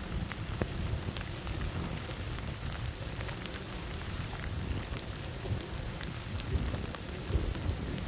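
Storm ambience: steady rain with scattered sharp drop taps, over a constant low rumble of wind.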